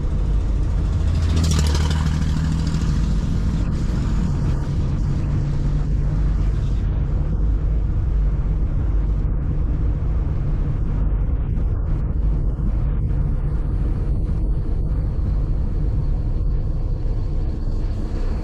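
A car driving on city streets: steady low engine and road rumble, with a louder surge of engine and road noise between about one and three seconds in.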